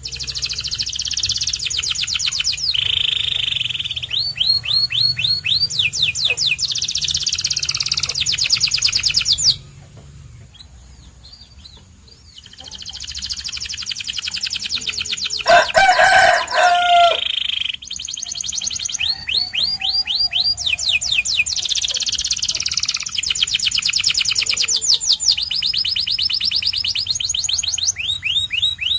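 Domestic canary singing: long phrases of fast trills, rapid repeated notes held at one pitch and then switching to another, with a pause of about three seconds partway through. Around the middle a short, lower and louder call breaks in.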